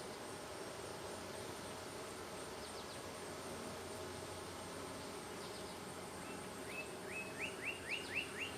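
Honeybees swarming around an opened, crowded hive, a steady, even buzzing hum. Near the end a quick run of short rising chirps, about four a second, sounds over it.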